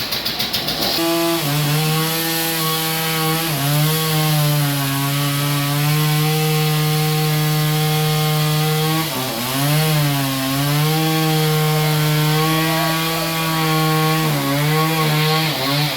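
Portable band sawmill cutting through a log: a loud, steady pitched hum from the saw that starts about a second in. The pitch sags and recovers three times as the cut loads the saw.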